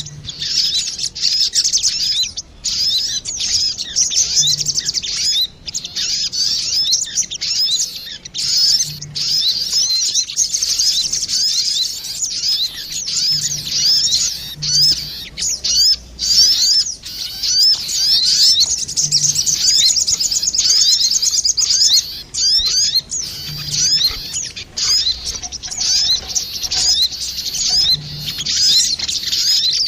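Sogon birds, female and male, calling back and forth in a bird-lure (pikat) recording: dense, rapid, high-pitched chirping and twittering that runs almost without pause, broken only by brief gaps.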